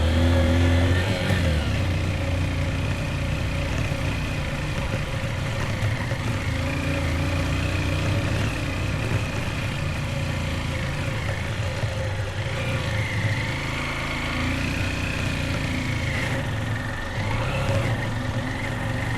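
Motorbike engine running while riding, its note slowly rising and falling with the throttle over a steady low rumble.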